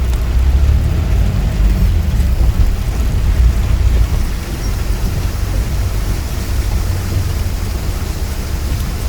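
Steady rain noise with a deep continuous rumble underneath.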